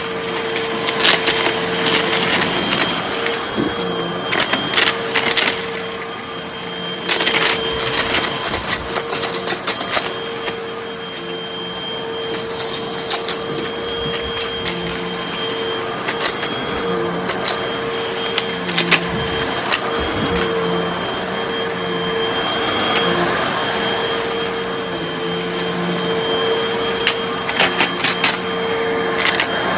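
Hoover vacuum cleaner running steadily with a constant hum and a faint high whine while it sucks up light crunchy debris. The debris rattles and crackles up the nozzle in bursts of clicks, heaviest about 7 to 10 seconds in and again near the end.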